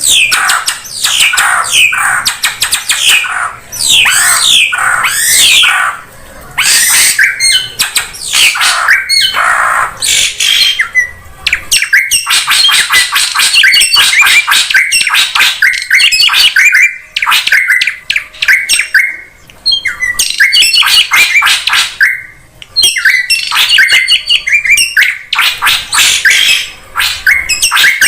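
Drongo calls played as a bird-trapping lure recording. A run of quick downward-sweeping whistles gives way to a dense, fast chatter of harsh, noisy calls with brief pauses.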